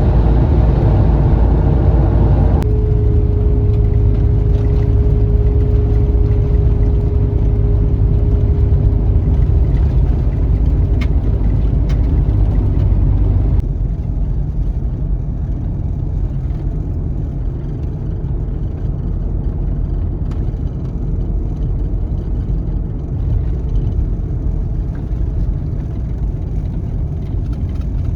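Van driving on the highway: a steady low road rumble with a humming drone, dropping in level abruptly twice.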